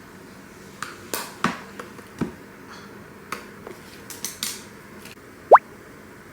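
Makeup containers and tools being handled: a scatter of sharp clicks and taps, then one short, loud rising squeak about five and a half seconds in.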